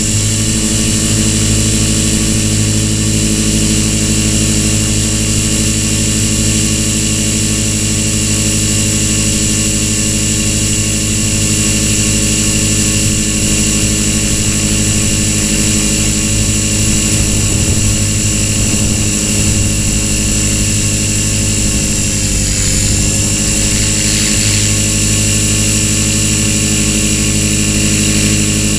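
Walkera V450D01 electric RC helicopter at flying speed, its brushless motor and rotors giving a steady high whine with a low drone. The pitch holds constant except for one brief dip about two-thirds of the way through.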